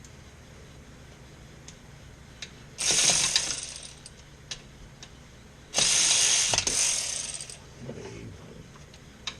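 Ratchet wrench clicking in two quick bursts as a bolt is run in, with a few single metallic clicks between them.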